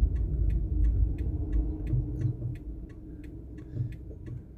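Car's turn indicator ticking steadily at about three clicks a second, signalling a right turn while the car waits in traffic, over a low engine rumble that eases after about two seconds.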